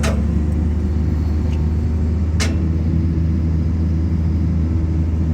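Heavy equipment engine running steadily at a constant speed, with a single sharp click about two and a half seconds in.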